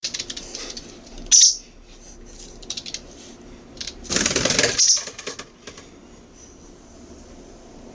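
Young white wagtail practising flight. There is a run of light, sharp clicks and taps from its feet and wings. A short high sound comes about a second in, and a louder flutter of wings comes around four seconds in.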